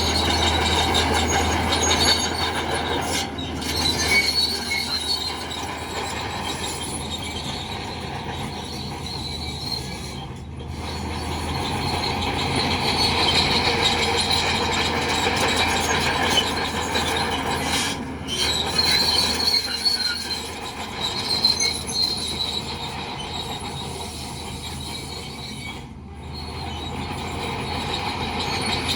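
Crawler bulldozer working: the diesel engine runs steadily under a high metallic squeal and clatter from the steel tracks, swelling and fading as the machine moves.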